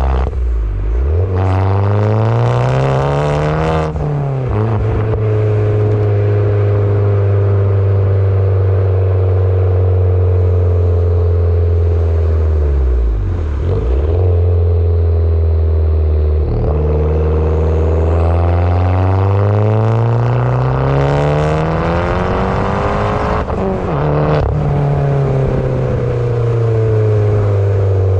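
Abarth 595 Competizione's tuned 1.4-litre turbocharged four-cylinder with a full 60 mm free-flowing exhaust, pulling hard. The engine note climbs in pitch for the first few seconds and drops sharply about four seconds in. It then holds a steady pitch, climbs again through the middle and drops sharply once more near the end.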